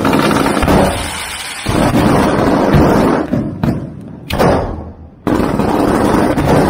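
Firecrackers and fireworks going off in a dense string of bangs and crackles, thinning out briefly twice in the middle, then starting again abruptly and loudly about five seconds in.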